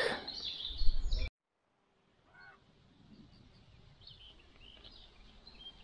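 Open-air ambience with a short bump just before a sudden cut to silence about a second in, then faint outdoor quiet with a few brief, scattered bird chirps.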